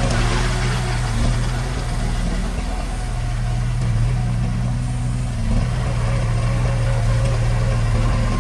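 Heavy diesel engine of earthmoving machinery running steadily, with a brief rush of higher-pitched noise at the start.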